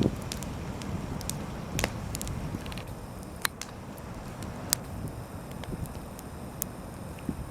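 Campfire crackling, with irregular sharp pops over a low steady rumble.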